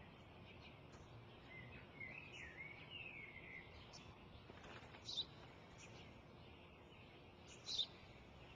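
Birds chirping faintly over a quiet outdoor hush: a short warbling phrase about two seconds in, then single sharp chirps about five and eight seconds in.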